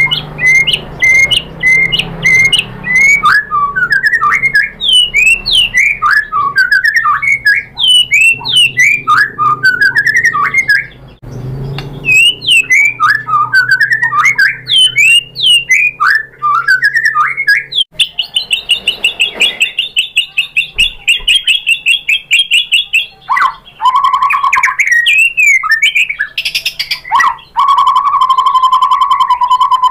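White-rumped shama singing loudly and continuously: rapid strings of sharp chips and quick sweeping whistles, breaking about two-thirds in into a long fast rattling trill, and near the end a lower, buzzier trill.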